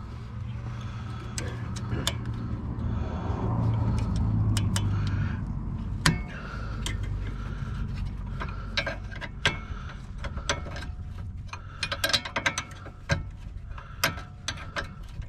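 Metal hand tools clinking and knocking while vice grips are fetched and clamped on a strut knuckle, with a single sharp knock about six seconds in and a run of quick ratchet-like clicks in the second half, over a steady low hum.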